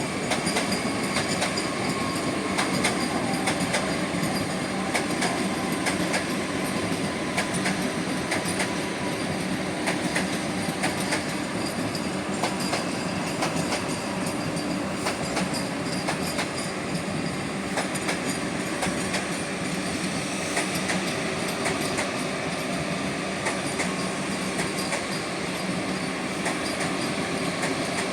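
Vande Bharat Express electric trainset rolling and braking to a stop, with steel wheels squealing thinly on the rails and a stream of clicks over rail joints. The rolling noise stays loud and steady throughout.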